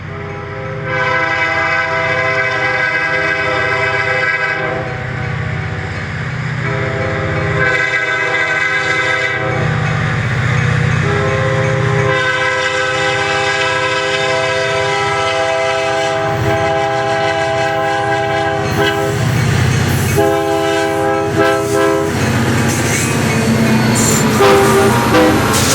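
Diesel freight locomotive's air horn sounding a chord in four blasts, the third one long and the last short, over the steady low rumble of the diesel engines. Near the end the wheels roll loudly over the rails as the train passes.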